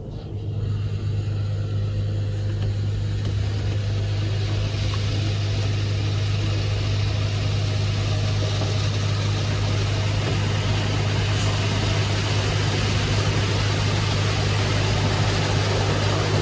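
Car wash machinery running: a steady low motor hum with a rushing hiss that builds over the first few seconds and then holds.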